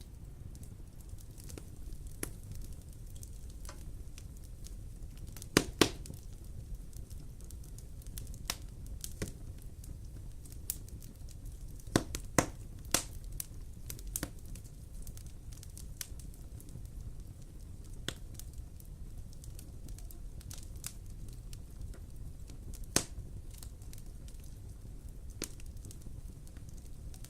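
Wood fire in a fireplace crackling over a low steady rumble, with scattered sharp pops: a pair about six seconds in, a cluster around twelve to thirteen seconds, and another near the end.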